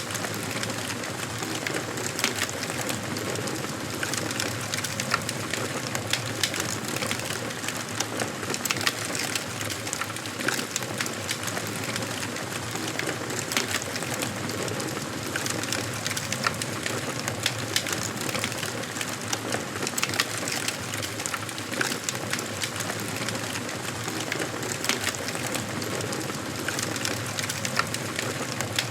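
Wood fire crackling in a fireplace: a steady hiss of burning logs with frequent small, sharp pops and snaps.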